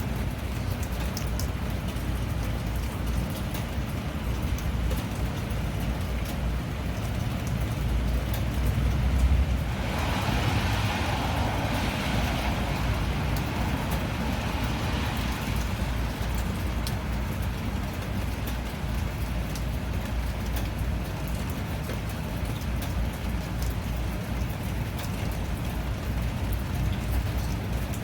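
Steady rain falling, with a deep rumble building and then a swell of hiss about ten seconds in that fades over the next several seconds, like a vehicle passing on a wet road.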